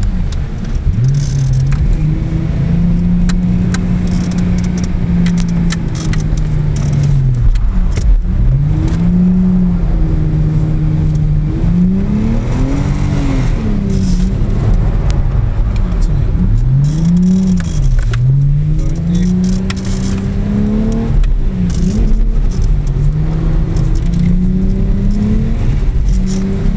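Car engine heard from inside the cabin, its revs rising and falling again and again as the car is drifted on a wet track, with light rattles and clicks over it.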